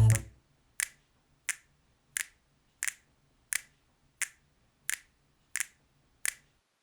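Finger snaps keeping a steady beat: nine sharp snaps, about three every two seconds.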